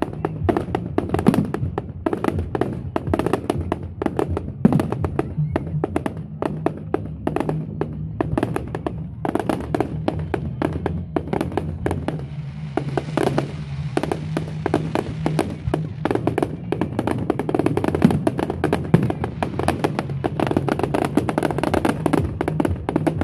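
Firework display: a rapid, continuous barrage of aerial shell bursts and crackling, several bangs a second with no let-up.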